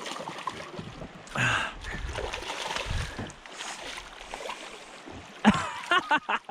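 Steady water and wind noise around a small fishing boat, with a short pitched cry about a second and a half in and a quick run of short pitched calls starting near the end.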